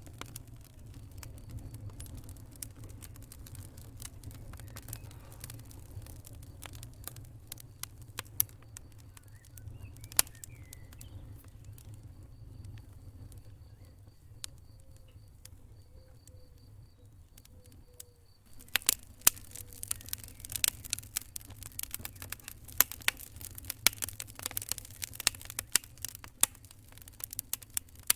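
Wood fire crackling in a fireplace: irregular pops and snaps over a low steady rumble, the snapping growing denser and louder about two-thirds of the way through.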